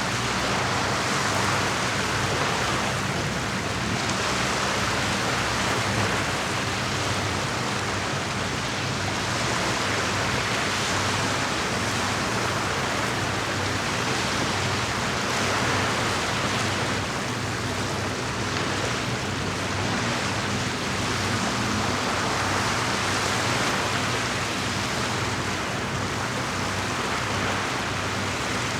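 Steady outdoor lakeside ambience: an even rushing noise that swells gently every few seconds, with a low steady hum underneath.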